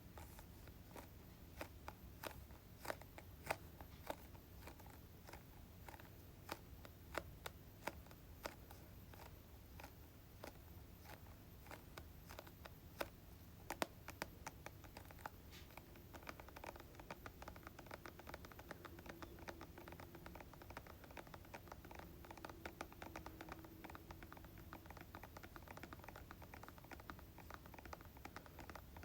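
Fingertip or fingernail tapping on hair product containers: faint, irregular taps with a few louder ones, growing quicker and denser from about halfway.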